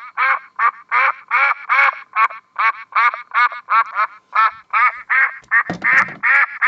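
Duck quacking in a rapid, unbroken series, about three quacks a second. A low thump sounds under the calls about six seconds in.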